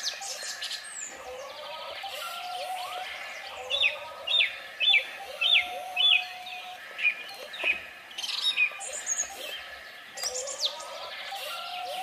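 Birds chirping and singing, with a run of about five sharp, evenly spaced chirps in the middle and other high calls throughout.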